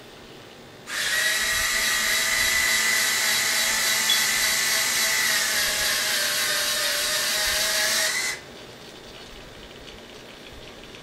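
Small electric gear motors of DSR-46 servoless retracts running, a steady drill-like whine with a hiss, as the model's landing gear cycles. It starts about a second in and cuts off suddenly about seven seconds later.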